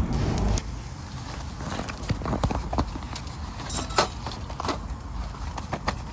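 Campfire crackling, with irregular sharp pops and snaps of burning wood over a low steady rush. Background music cuts off about half a second in.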